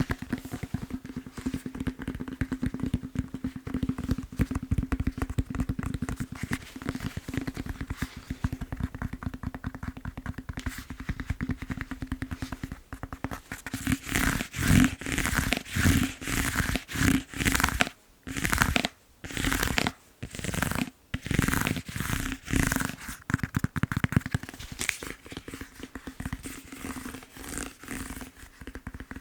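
Fast tapping on a foam massage roller: a dense, very rapid patter of small taps. About halfway through it turns into louder, slower strokes with a few short pauses, then returns to the quick tapping.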